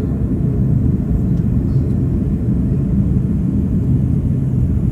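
Steady low rumble of airliner cabin noise during descent: the engines and the airflow past the fuselage, heard from inside the cabin.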